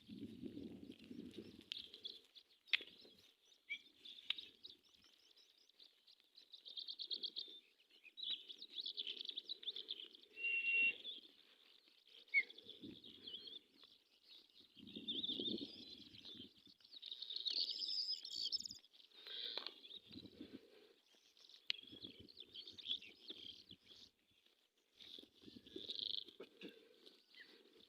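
Small birds chirping and trilling in many short calls, with recurring low muffled noise every few seconds underneath.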